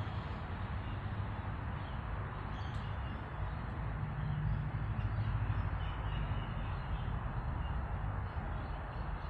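Outdoor background of steady noise with a low rumble, and birds calling faintly now and then, including crow-like caws.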